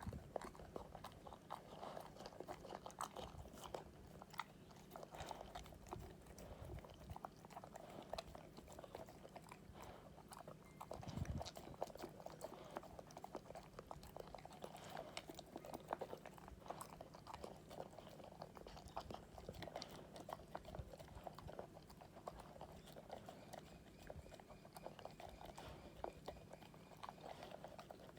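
Akita dog chewing and crunching its breakfast steadily, a dense run of small irregular crunches with a low thump about eleven seconds in.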